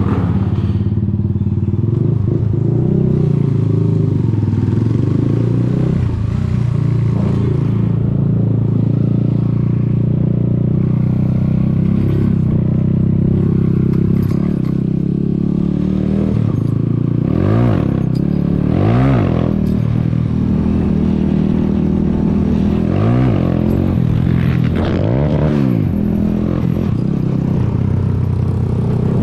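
Zanella Sapucai 200 single-cylinder motorcycle engine running steadily while riding, its pitch rising and falling briefly several times in the second half as the throttle is worked.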